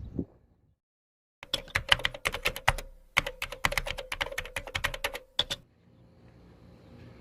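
A rapid run of sharp clicks, like typing on a keyboard, for about four seconds after a second of dead silence, then a faint steady background.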